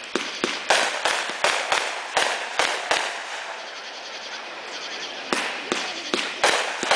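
Fireworks going off in a quick, irregular string of sharp bangs, each trailing off into a brief hiss. They come several a second, pause for about two seconds midway, then start again.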